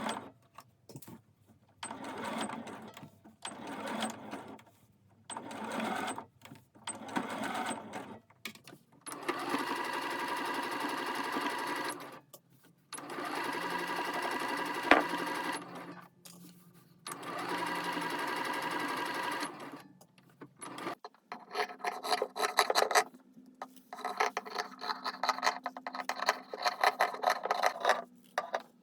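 Electric sewing machine stitching fabric in stop-start runs: short bursts at first, then several steady runs of two to three seconds each, with a sharp click about 15 seconds in. In the last third it runs in a denser, choppier pattern.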